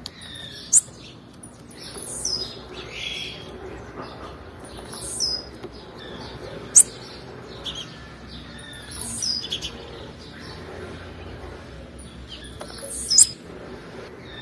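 Female blue-black grassquit (tiziu) calling: short high chirps every second or two, with three sharp, very high notes standing out about a second in, midway and near the end.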